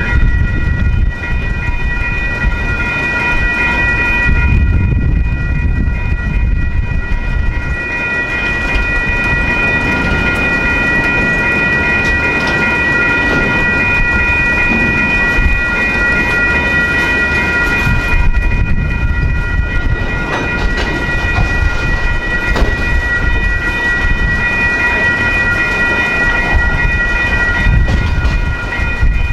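Freight train cars rolling through a grade crossing with a steady low rumble and a few knocks from the wheels, while the crossing's warning bells ring on without a break.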